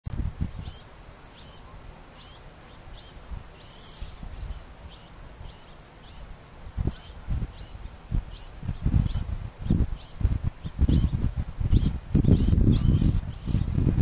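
A large fledgling bird of another species begging to be fed, with short, sharp, high-pitched calls repeated about every half second. A low rumbling noise grows louder in the second half.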